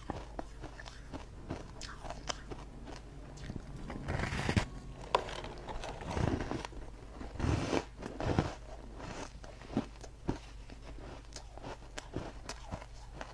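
Ice being bitten and crunched between the teeth, a run of sharp cracks with several louder crunching bites in the middle.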